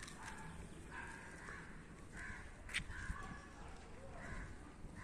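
Birds calling, short calls repeated about once a second, with a sharp click about halfway through.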